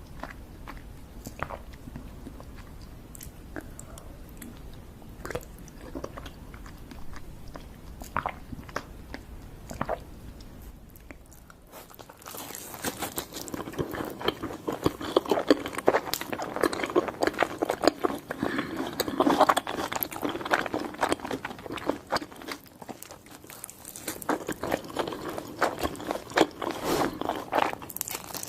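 Close-miked eating: crunchy food being bitten and chewed, with scattered small crunches at first, then dense, loud crunching from about twelve seconds in that eases briefly and starts again near the end.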